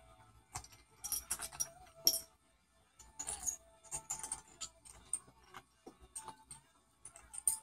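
Cockatoo busy at a toy or object, making irregular clusters of sharp clicks, clinks and rattles with short pauses between them.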